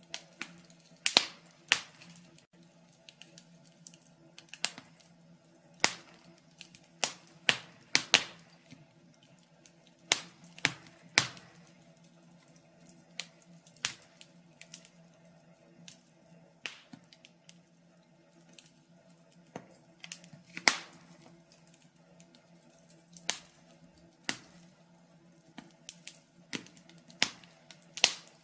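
Wood fire crackling: irregular sharp pops and snaps, one every second or so, over a faint steady low hum.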